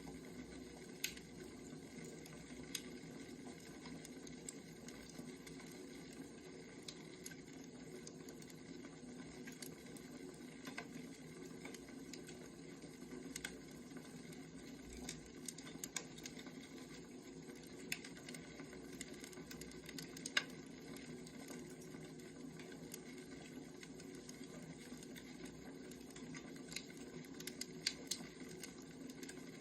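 Wood fire crackling: irregular sharp pops and snaps over a steady low rustle of burning firewood.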